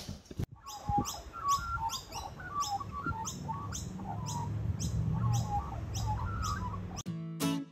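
Birds chirping outdoors: scattered short chirps, with a high call repeated about twice a second over a low hum. Music comes in near the end.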